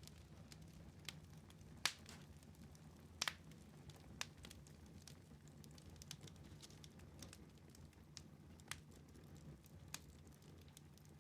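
Wood fire in a fireplace crackling faintly: scattered sharp pops, the loudest about two and three seconds in, over a low steady rumble.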